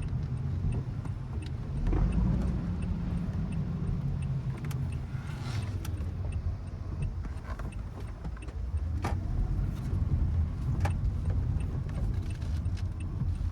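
Inside a moving car: a steady low rumble of road and engine noise, with scattered light clicks and taps over it.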